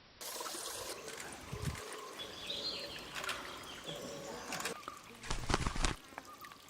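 Outdoor ambience with short bird chirps, mixed with knocks and rustling handling noise; a louder rumbling noise comes about five and a half seconds in.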